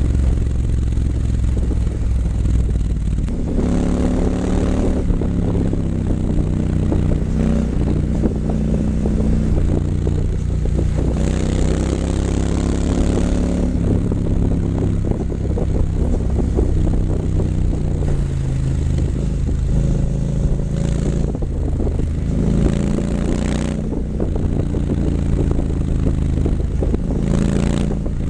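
Triumph Scrambler 900 parallel-twin engine through an H-pipe and Vance & Hines exhaust, running loud and steady with its pitch climbing on several accelerations, the longest rise about eleven to thirteen seconds in.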